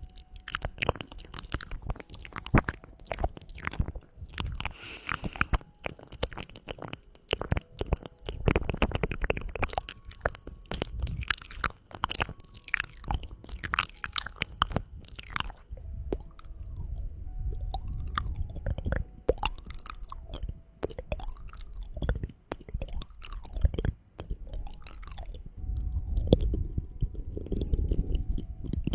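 Close-miked ASMR mouth sounds: rapid, irregular wet tongue clicks, thinning out somewhat past the middle.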